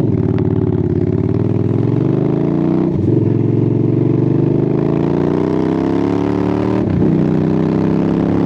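Motorcycle with loud aftermarket pipes accelerating hard, its pitch climbing through the gears, with a shift about three seconds in and another near seven seconds.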